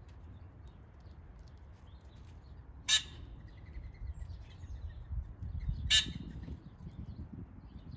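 Backyard birds calling: two loud, short calls about three seconds apart, with fainter chirps and a thin whistle between them. A low rumble runs underneath, strongest in the middle.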